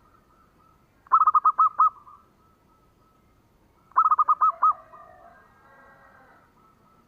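Zebra dove (perkutut) cooing: two quick phrases of rapid, clipped coos on one pitch, one about a second in and the other about four seconds in. The second phrase is followed by fainter bird chirping.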